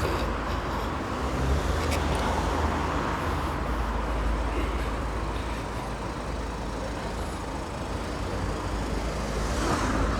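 Road traffic passing: a steady hum of cars with a low rumble, swelling as a vehicle goes by near the end.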